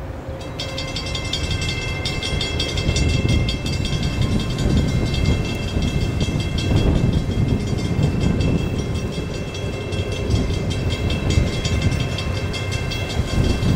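Distant approaching Florida East Coast Railway freight train led by EMD diesel locomotives, heard as a low rumble that builds over the first few seconds. From about half a second in, a steady high-pitched ringing pulses rapidly and evenly.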